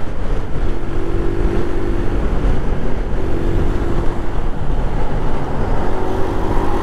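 Small Honda Navi single-cylinder motorcycle engine running steadily while riding, with wind and road noise. A steady engine tone fades in and out a few times.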